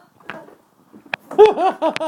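A person laughing, a quick rhythmic 'ha-ha-ha' that starts just over a second in after a brief lull and a click.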